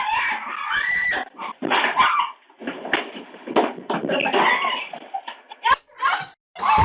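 Raccoons squealing and snarling in a run of short, ragged bursts, with high squeals that rise and fall.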